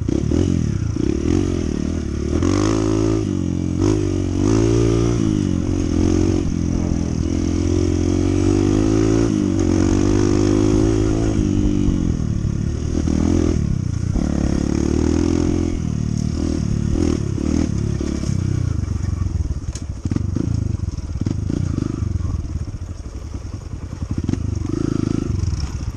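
Honda CT125's single-cylinder engine running, its pitch rising and falling again and again as engine speed changes.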